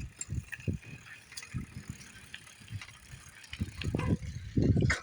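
Bicycle being ridden, with wind buffeting the microphone in uneven gusts, strongest near the end, and small clicks and rattles over it.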